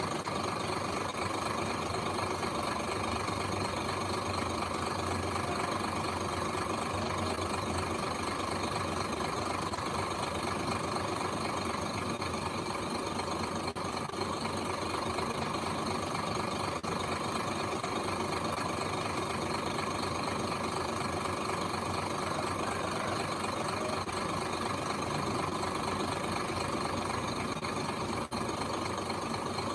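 Heavy construction machine's engine running steadily, an even drone with no change in level.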